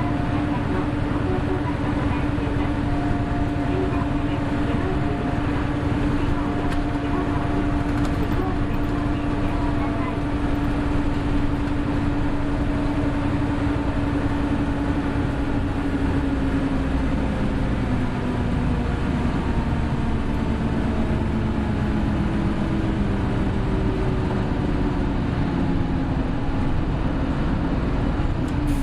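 Hino Blue Ribbon City hybrid bus (BJG-HU8JLFP) running: a steady engine and drivetrain drone with a strong held tone, which slowly falls in pitch over the last ten seconds or so.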